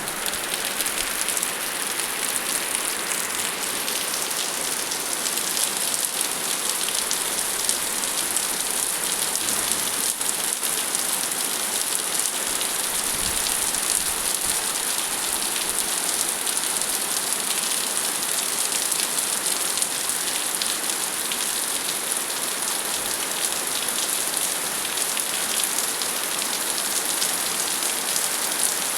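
Steady rain falling, a constant hiss dense with fine patter of drops.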